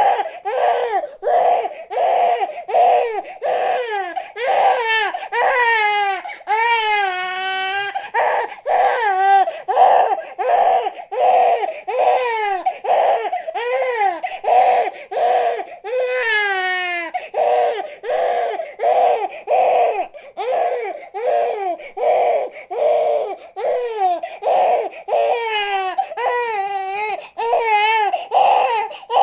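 Newborn baby crying hard: short repeated cries about twice a second, broken by longer wavering wails that rise and fall, at about 6 to 8 seconds in, around 16 seconds and again near the end.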